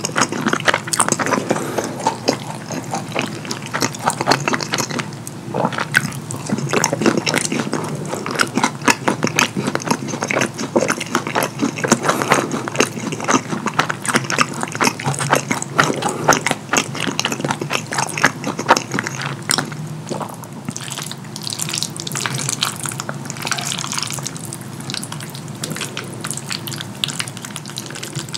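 Close-miked wet chewing and mouth smacking of a mouthful of croissant-crust pepperoni pizza: a dense, uneven run of small wet clicks, softer over the last third.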